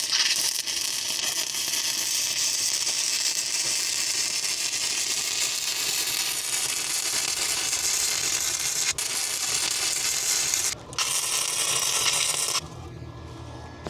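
A 110V flux-core wire welder lays the first bead into a ground-out V-groove in preheated steel, with a steady arc crackle and sizzle. The arc breaks off briefly about eleven seconds in and stops shortly before the end, leaving a low hum.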